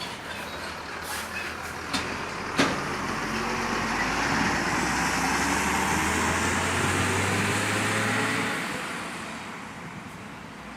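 Heavy diesel truck driving past: its engine swells from about three seconds in, holds, and fades away after about eight seconds. Two sharp knocks come a little before it swells, the second one the loudest sound.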